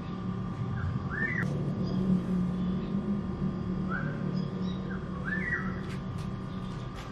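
A bird calling in short rising whistled notes, the same short phrase twice about four seconds apart, over a steady low hum.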